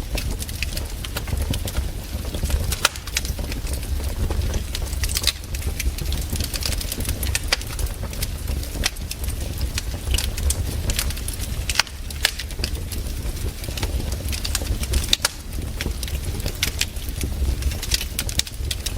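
Campfire burning, the wood crackling with frequent irregular sharp pops over a steady low rumble.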